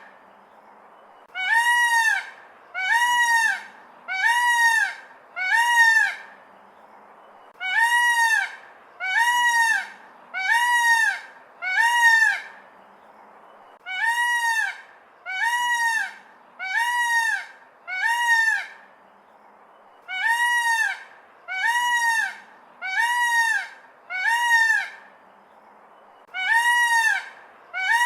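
A large bird calling loudly and repeatedly. Each call is short and rises then falls in pitch, and the calls come in runs of four or five about a second apart, with brief pauses between runs.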